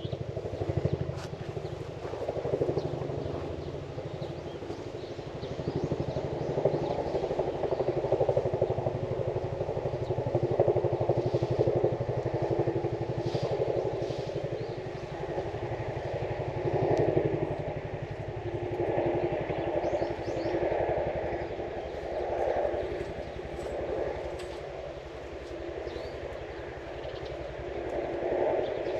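An engine running steadily, its sound swelling and fading every few seconds, with faint bird chirps above it.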